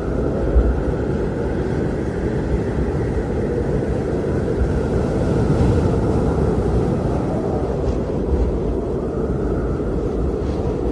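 Blizzard wind blowing steadily as a deep, even rush, with a faint higher whistle above it, swelling a little about halfway through.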